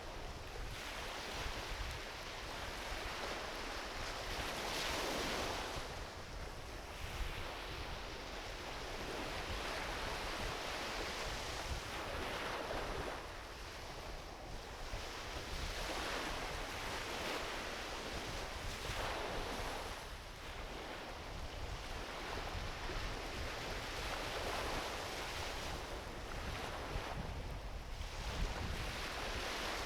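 Small ocean waves washing onto a beach, one swell rising and falling every three to four seconds, over a low rumble of wind on the microphone.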